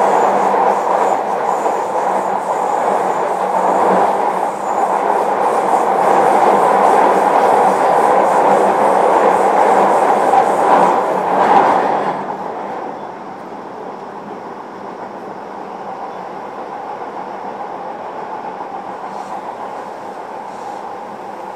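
Running noise inside a JR Kyushu 305 series electric train's motor car at speed: steady rumble of wheels on rail. About twelve seconds in the noise drops suddenly to a quieter level and carries on steadily.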